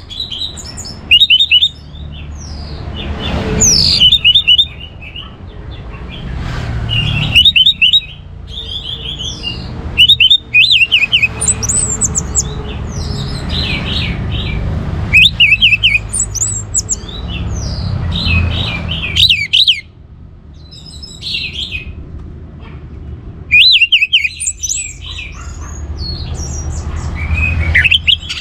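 Orange-headed thrush (anis merah) singing in short phrases of quick, high twittering notes, a new phrase every second or two, over a low background rumble.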